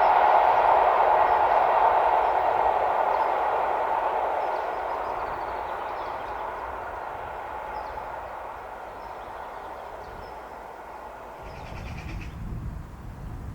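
A train running past on the rails, its rolling noise loudest at first and fading steadily as it moves away. Near the end, low wind rumble on the microphone comes in along with a brief high call.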